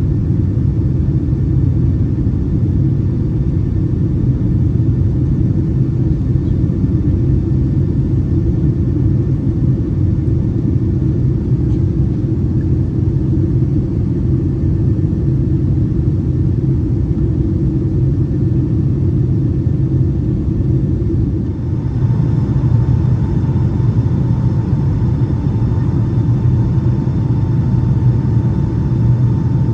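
Steady low cabin rumble of a Boeing 757-200 airliner. About two-thirds of the way through it dips for a moment, and then a steady higher whine joins the rumble.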